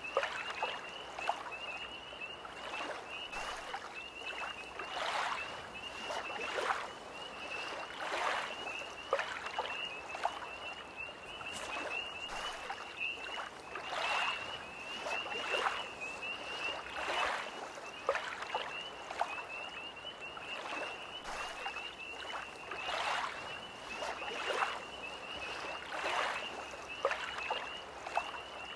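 Small lake waves lapping in soft splashes about every second or so, under a steady high trilling chorus of tree frogs.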